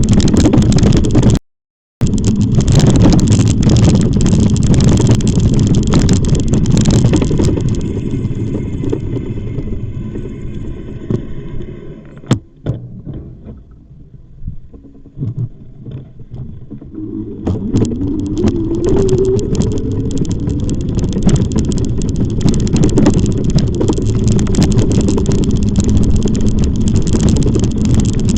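Wind rumbling and buffeting on the microphone of a moving e-bike. The sound cuts out completely for about half a second near the start, drops much quieter for several seconds in the middle, then builds back with a low rising whine.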